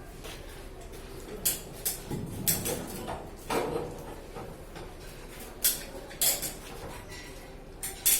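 Irregular clinks and knocks of hard objects being handled, about nine in all, over a steady low background hum.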